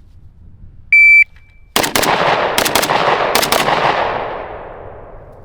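A shot timer's start beep, then a 5.56 AK (Zastava PAP 85) firing six shots in three quick pairs, a 2-2-2 drill. The echo fades out over about two seconds.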